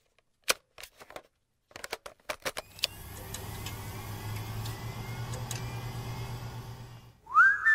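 Several sharp clicks, then a steady low hum. Near the end a tone glides up and holds as music begins.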